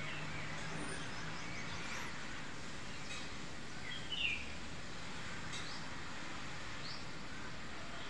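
Small birds chirping here and there, short high chirps with the loudest about four seconds in, over a steady outdoor background hiss.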